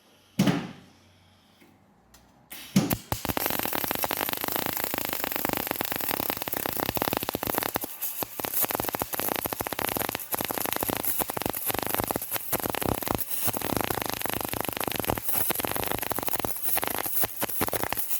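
Welder crackling steadily while welding up a straight exhaust pipe, starting about three seconds in after a couple of short knocks.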